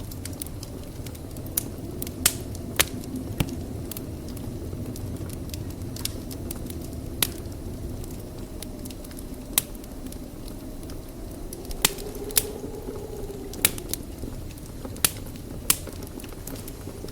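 Wood fire burning in a fireplace: a steady low rumble of flames with sharp, irregular crackles and pops, about fifteen of them, scattered unevenly through the stretch.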